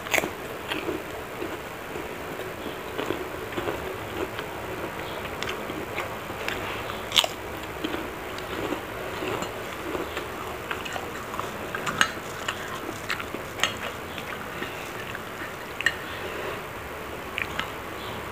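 A person chewing and crunching kerupuk crackers and fried rice, with sharp crunches coming at irregular intervals every second or two.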